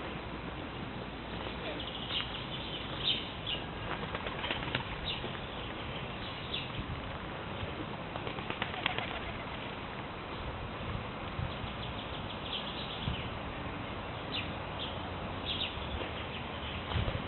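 Forest birds calling: short, scattered high chirps over a steady rustling background.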